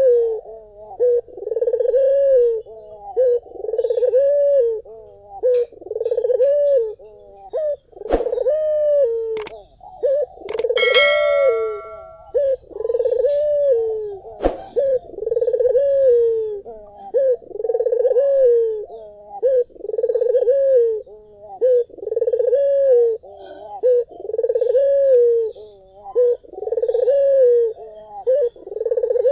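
A puter dove (domestic collared dove) cooing over and over in a steady rhythm, one low, rolling coo about every two seconds. A few sharp clicks and a short high tone break in once, in the first half.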